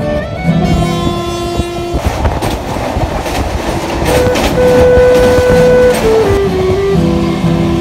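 Passenger train running on rails, a rushing rumble with wheels clattering over the rail joints, swelling up about two seconds in. Background flute-and-guitar music plays over it and comes back to the fore near the end.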